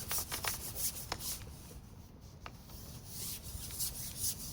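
Quick repeated rubbing or scraping strokes, about four or five a second, that die away after a second and a half; one more stroke follows a second later.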